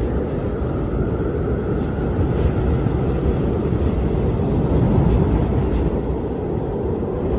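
Wind howling: a steady rushing roar with a faint whistling tone that wavers slowly in pitch, swelling slightly about five seconds in.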